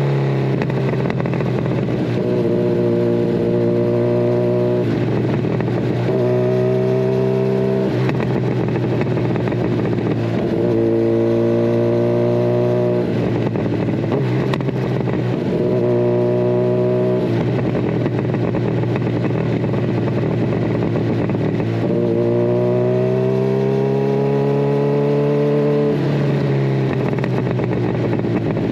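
Kawasaki Ninja 1000SX inline-four engine through a de-catted Scorpion Red Power exhaust, under way. Its pitch climbs and then drops again and again as the bike accelerates and changes gear.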